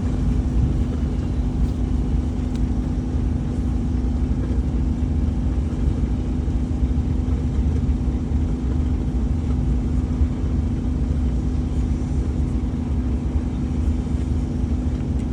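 A steady, unchanging machine drone: a low rumble with a constant hum.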